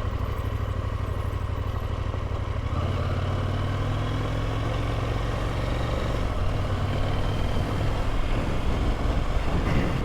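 KTM adventure motorcycle's engine running while riding, with wind and road noise. The engine note strengthens about a third of the way in as the rider gets back on the throttle.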